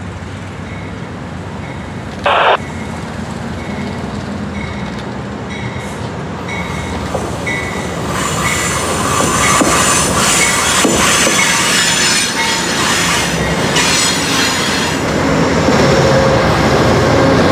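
Amtrak passenger train rolling in on the rails, getting louder, with a steady wheel-flange squeal growing over the second half. In the first half a short high ding repeats about every two-thirds of a second.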